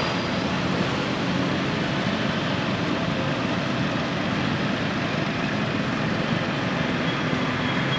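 Steady rushing noise with a few faint, short bird whistles over it.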